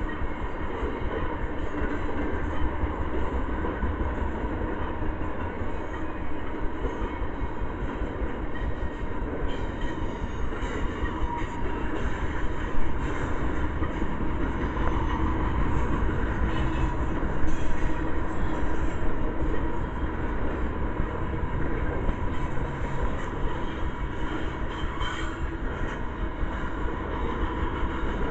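Union Pacific intermodal freight train rolling past at close range: the steady rumble and rattle of well cars' wheels on the rails, briefly louder twice, about 13 and 17 seconds in.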